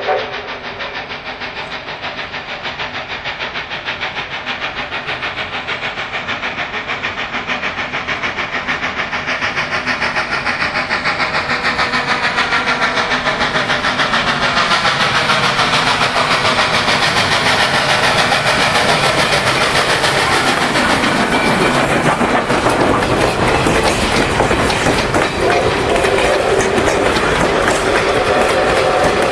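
Canadian National 3254, a 2-8-2 Mikado steam locomotive, working its train with a fast, steady rhythmic clatter that grows steadily louder as it draws near. A whistle-like tone sounds again near the end.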